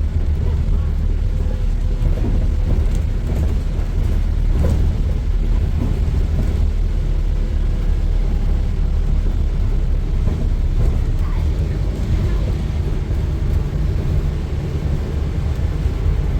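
Scania N230UD double-decker bus's five-cylinder diesel engine running under way, a steady low drone with road noise over it.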